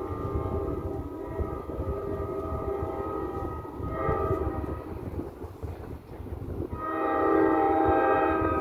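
NJ Transit train's air horn sounding in blasts, a chord of several steady tones. It falls off in the middle and comes back with a louder long blast about seven seconds in, over a low rumble.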